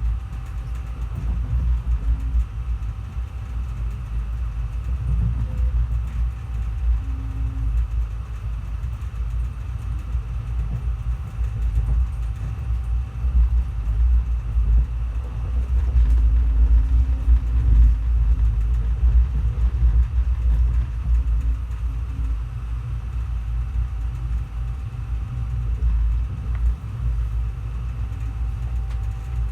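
Passenger train running, heard from on board as a steady low rumble.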